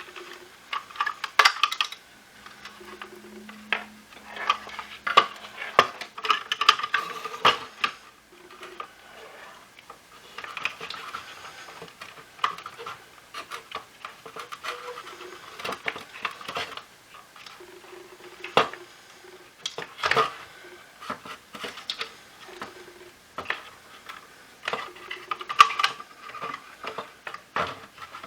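Hard plastic parts of a Shark cordless stick vacuum clicking, knocking and scraping as they are handled and worked apart by hand, in irregular clatters with a few louder knocks.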